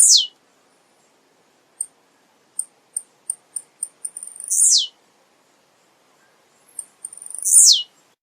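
Male blue-black grassquit (tiziu) singing: a run of short, very high ticks, each run ending in a loud buzzy note that slurs steeply downward. The phrase comes three times, every three to four seconds.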